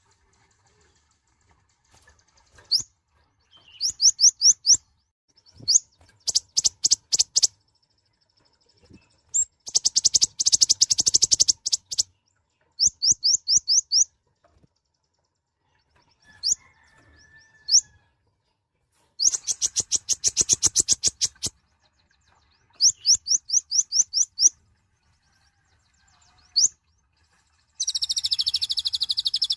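Kolibri ninja sunbird singing: short phrases of rapid, high, thin chirps and trills, each lasting a second or two and separated by pauses. A harsher buzzy trill comes near the end.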